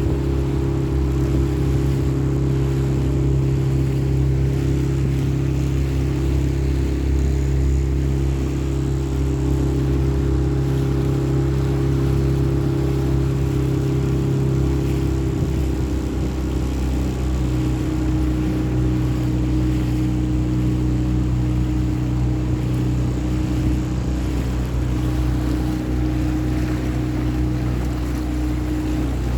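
Small hire boat's engine running steadily under way, easing to a slightly lower speed about halfway through.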